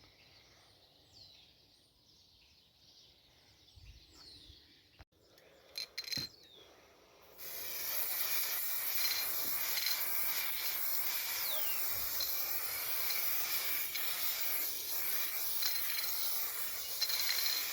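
Spray sealer hissing in one long, steady spray that starts about seven seconds in. Before it, near quiet with faint bird chirps and a couple of light clicks.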